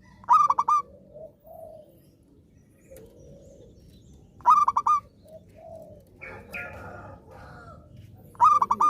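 Zebra dove (perkutut) singing: three loud phrases of quick, staccato coos about four seconds apart, with softer, lower coos in between.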